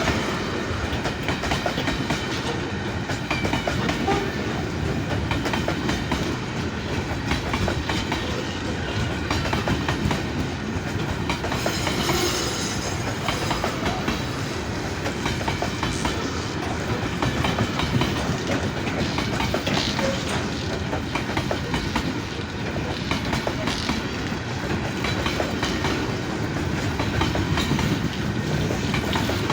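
Passenger express train's coaches rolling past at speed, with a steady clatter of wheels over the rail joints that carries on unbroken.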